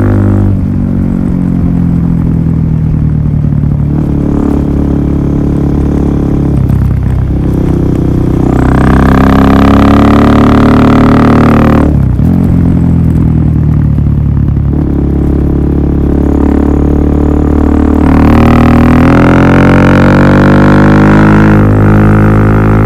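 Suzuki DR400SM single-cylinder four-stroke engine running loud through a full Yoshimura exhaust system, its note climbing and then changing pitch several times as revs rise and fall.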